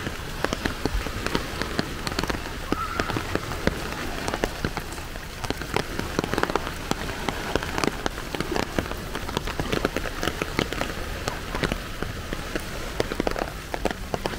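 Rain falling steadily, with dense irregular ticks of drops striking close surfaces.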